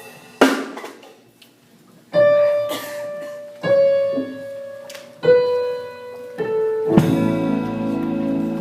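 Slow gospel song intro on keyboard: held chords struck one after another, with a drum hit about half a second in and the drums and band coming in fuller near the end.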